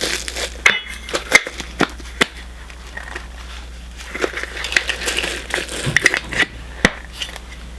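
Plastic packaging crinkling and rustling as it is handled, with scattered sharp clicks and taps throughout.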